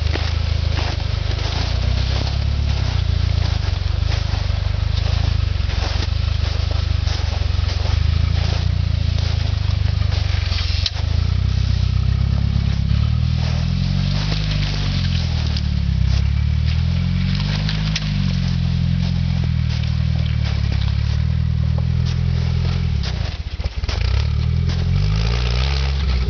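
Jeep rock crawler's engine running at low speed, revved up and down over and over in the second half, with frequent crunches and scrapes from the tyres and underbody.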